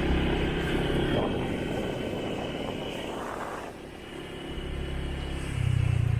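Motorbike engine running while riding, with wind and road noise. The engine eases off in the middle, then picks up and runs louder again near the end.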